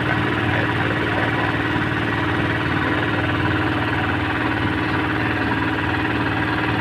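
A small ferry boat's engine running steadily with a fast, even pulsing.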